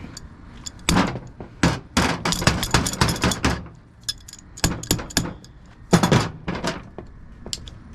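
Irregular clusters of sharp metal knocks and clanks as a screwdriver jammed in a hole in a semi-hermetic compressor part is worked loose.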